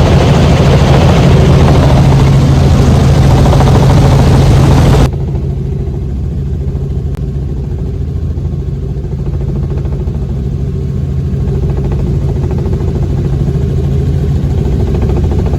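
Helicopter engine and rotors running, a loud steady drone with a strong low hum. About five seconds in it suddenly becomes quieter and duller, then carries on steadily.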